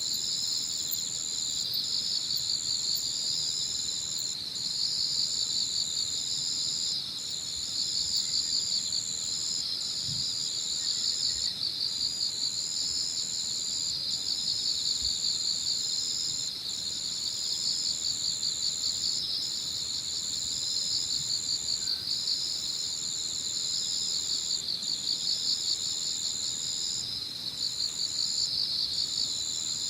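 Evening chorus of singing insects: a steady high trill broken by short gaps every second or two, layered over a lower, rapidly pulsing chirring.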